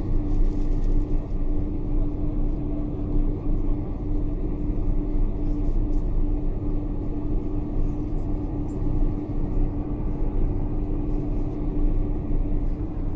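Steady cabin noise inside a Boeing 747-400: a low rumble with a constant hum and no change in pitch.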